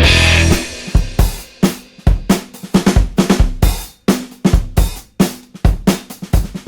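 Background rock music: the full band drops out about half a second in, leaving a drum kit playing a beat alone, with kick drum, snare, hi-hat and cymbal hits.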